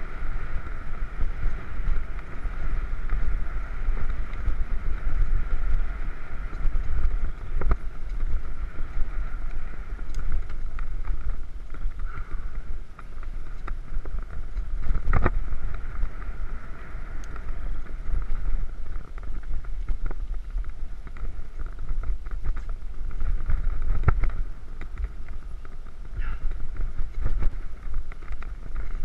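Mountain bike ridden along a dirt trail: wind buffets the camera microphone with a steady low rumble, while tyre noise and the bike rattling over bumps add frequent short, sharp knocks.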